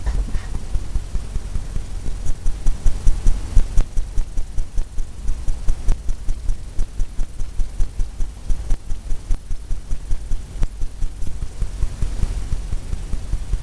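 Paintbrush tapping repeatedly against a stretched canvas, dull low taps about four a second, strongest in the middle.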